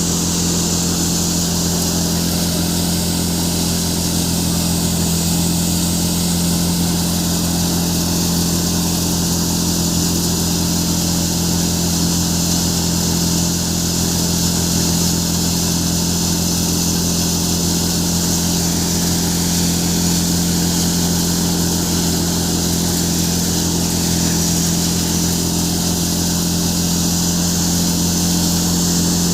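Farmtrac tractor running a chickpea threshing machine: a steady engine hum under the constant whirring hiss of the thresher working.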